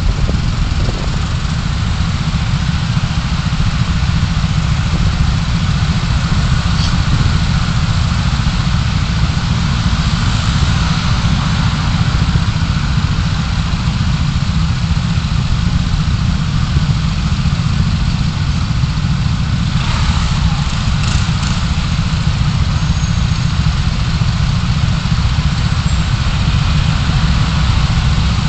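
Steady low engine and road rumble of a car, heard from inside the cabin through a dashcam microphone, with a few brief knocks about twenty seconds in.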